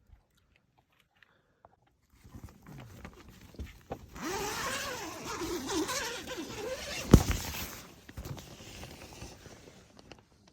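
Rustling, scraping handling noise, loudest in the middle, with one sharp click about seven seconds in.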